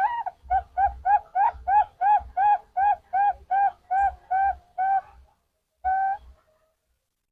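Zebra dove (perkutut) cooing: a quick run of about fourteen short, rounded coo notes, roughly three a second, followed by one longer coo about six seconds in.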